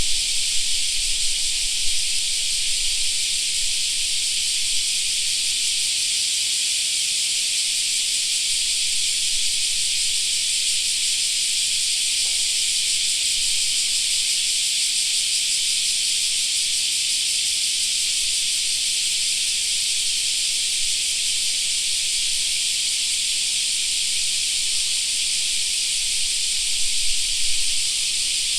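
Summer cicada chorus: a dense, steady, high-pitched buzzing hiss that holds unchanged throughout. A few brief low bumps, like wind on the microphone, come near the start and near the end.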